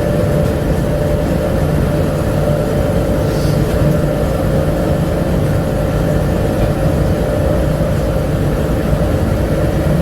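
Ride noise of a Bombardier APM100 rubber-tyred people-mover car under way, heard from inside the car: a steady rumble with a constant whine.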